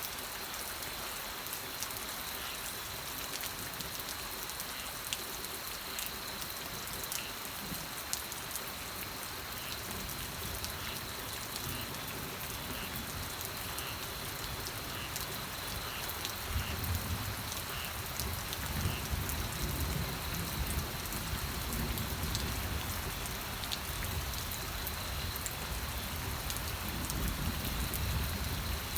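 Steady rain falling, with scattered single drops striking sharply. A low rumble comes in about halfway through and keeps swelling and fading.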